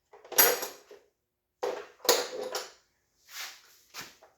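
A few separate clanks and clinks of metal tools and parts being handled and set down while working on a dirt bike, with short silences between them.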